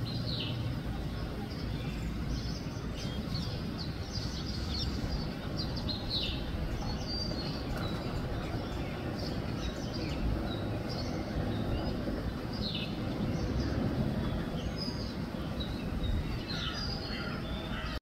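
Small birds in a tree canopy chirping: many short, high notes, several of them falling in pitch, scattered irregularly throughout, over a steady low background rumble.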